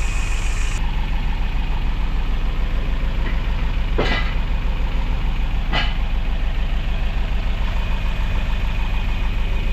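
Toyota Vios four-cylinder engine idling evenly, with two short sharp clicks about four and six seconds in. No valve-train ticking: the 'typewriter' tick is cured now that the oil sludge has been cleared and oil reaches the cylinder head again.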